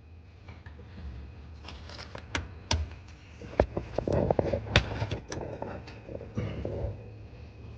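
Hand tools and car parts being handled in a garage: scattered sharp clicks and knocks, the loudest few between about two and five seconds in, over a low steady hum.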